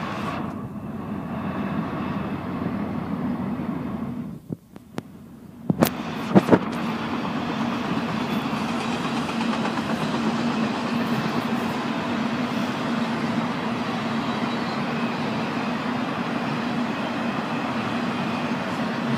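A train rolling past with a steady rumble of wheels on rail. There is a brief lull about four seconds in, followed by a few sharp knocks, then the steady rumble returns.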